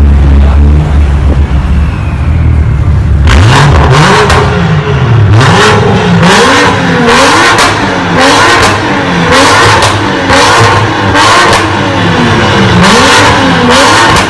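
A loud high-performance car engine idling with a low rumble, then revved again and again from about three and a half seconds in, its pitch rising and falling about once a second.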